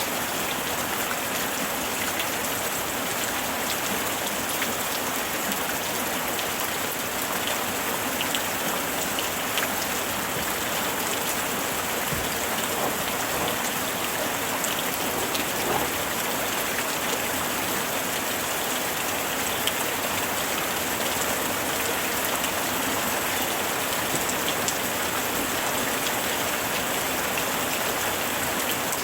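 Steady summer rain falling, an even hiss of rain with many small drop taps on a surface.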